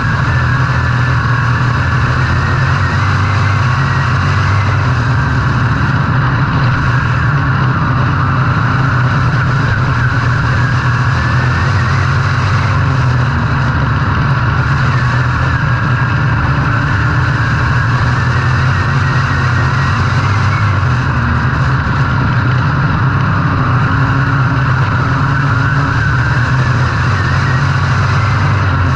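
IMCA Modified dirt-track race car's V8 running hard under racing load, a loud, even drone with little change in pitch.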